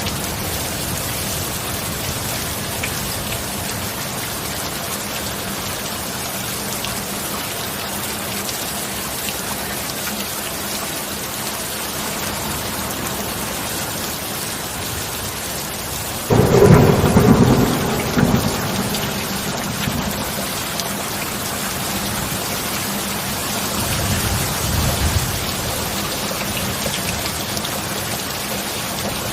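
Steady heavy rain, with a sudden loud thunderclap a little past the halfway point that rumbles off over a few seconds, and a softer roll of thunder near the end.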